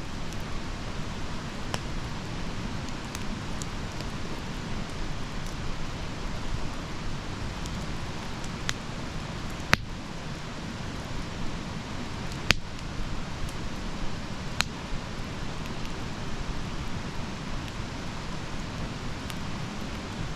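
Wood fire burning with a steady low rumble and hiss, and sharp crackling pops now and then; the two loudest pops come about ten and twelve and a half seconds in.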